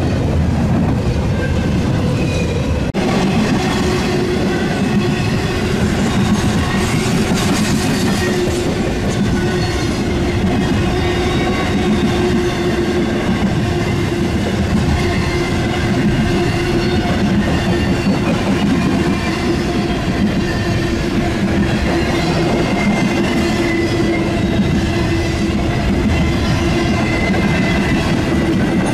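Intermodal freight train of truck trailers on flatcars rolling past close by: a steady loud rumble of wheels on rail with clickety-clack and thin high ringing squeal from the wheels.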